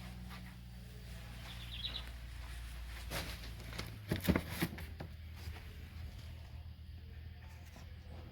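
A few soft knocks and footsteps over a low steady hum, with a brief faint chirp about two seconds in.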